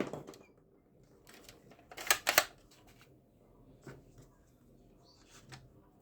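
A few sharp plastic clicks and clacks from toy guns being handled, with a quick cluster about two seconds in and single clicks later on.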